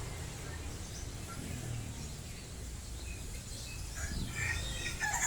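Market ambience of caged birds chirping over a steady low background rumble. About four seconds in, the bird calls get louder and one bird breaks into a fast, repeated high call.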